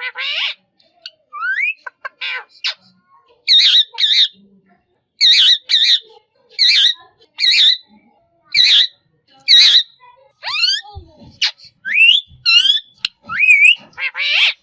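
Green parrot calling: short rising whistles and chirps, then a run of about ten loud harsh squawks, roughly one every two-thirds of a second, then more rising whistles.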